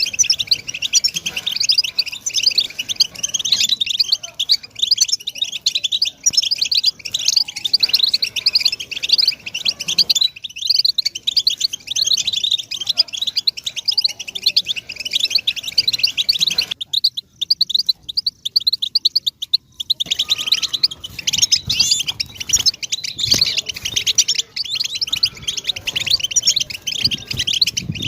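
European goldfinch song: a fast, unbroken twittering of high chirps and trills, thinning out for a few seconds past the middle before picking up again.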